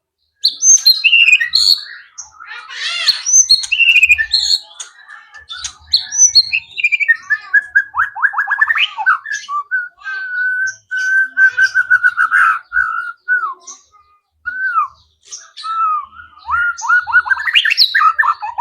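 White-rumped shama singing a varied, continuous run of whistled glides, quick chattering notes and rapid trills, its song filled with phrases copied from other wild birds.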